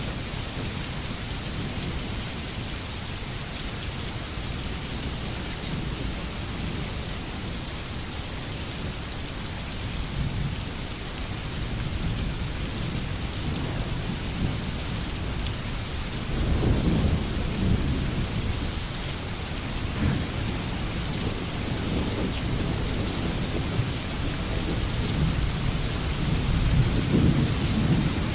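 Steady rain falling, with low thunder rumbling in the background that swells about halfway through and again near the end.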